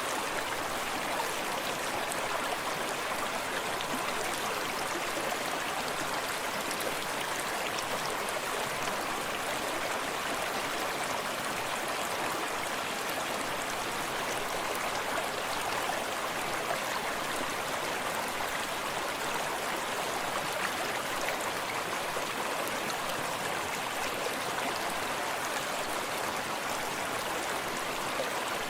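Small forest stream running over rocks: a steady, even rush of water that does not change.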